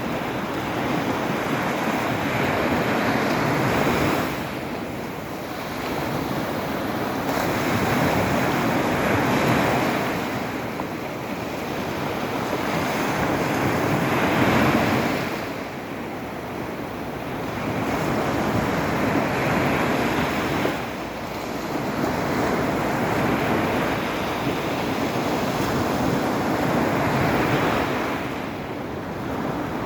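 Black Sea waves breaking and washing on the shore: a steady noisy rush that swells and eases every five or six seconds.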